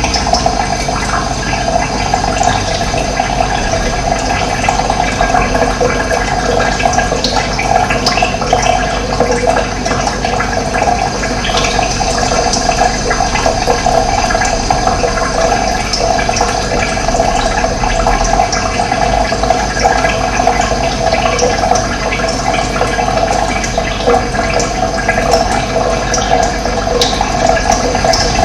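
Running water: a steady gurgling flow.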